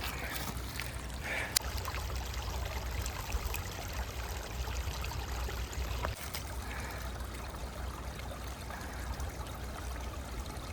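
Small stream trickling and running steadily, with a couple of faint knocks.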